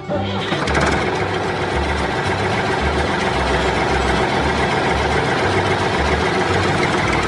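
Steady engine-like running noise from a DIY mini tractor, starting abruptly at the beginning and holding at an even level.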